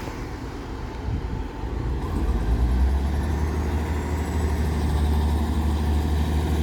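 Class 158 diesel multiple unit's underfloor diesel engines running, with a low drone that swells and grows louder about two seconds in, then holds steady.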